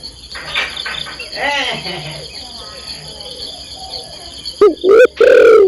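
Crickets chirring steadily in a high thin drone, with some softer rising-and-falling calls early on. Near the end come three loud, close calls, the last one the longest.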